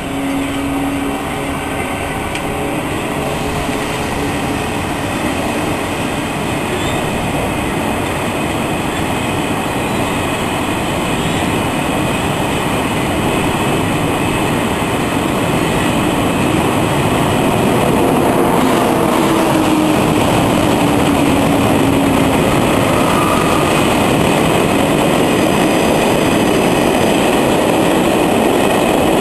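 Long freight train of empty flat wagons rolling past on steel rails, a steady wheel-and-rail rumble that grows gradually louder.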